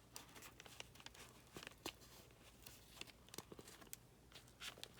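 Faint paper rustling with scattered light clicks: a paper signature being handled as cotton cord is pulled through its punched sewing holes with a big needle.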